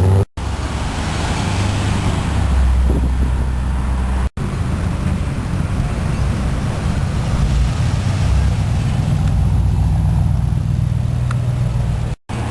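Engines of old American cars running with a steady low rumble as they cruise in street traffic, broken three times by a split-second dropout in the sound.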